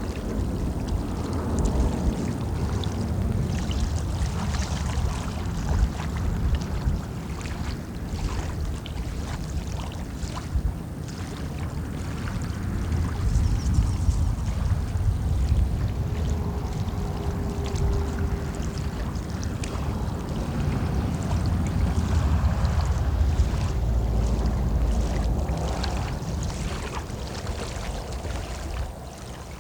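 Wind gusting over the phone's microphone as a heavy, uneven rumble, over moving water.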